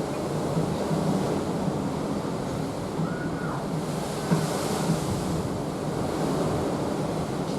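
Open sea washing past a cruise ship under way, a steady rushing, with wind on the microphone.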